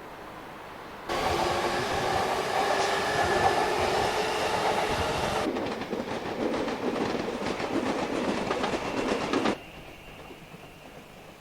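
Electric train running on rails, starting suddenly: at first with a steady ringing tone over the running noise, then from the middle a fast rhythmic clatter of wheels over rail joints, cutting off abruptly about nine and a half seconds in.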